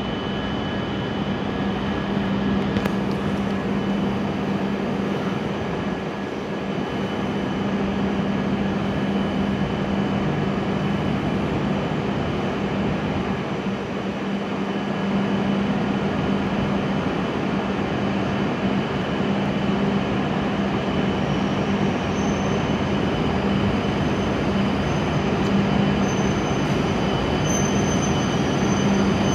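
E7 series Shinkansen pulling slowly into the platform over a steady low hum. In the last several seconds it gives short, high-pitched squeals as it slows to a stop.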